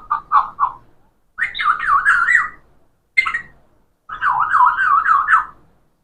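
A parrot whistling a warbling call whose pitch sweeps quickly up and down, in four bursts with short pauses between them.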